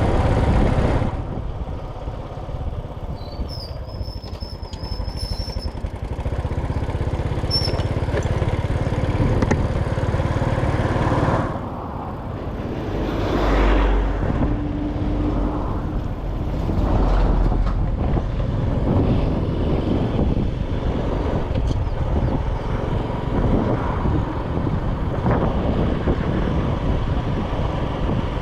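Motorcycle running along a road, with steady engine and road noise that dips briefly about eleven seconds in.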